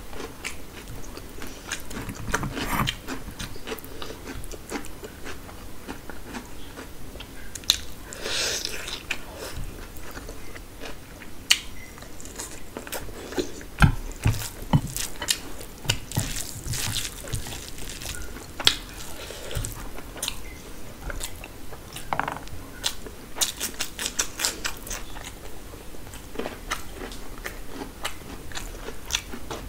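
Close-miked chewing of biryani rice and mutton eaten by hand, with many sharp, irregular wet mouth clicks and smacks.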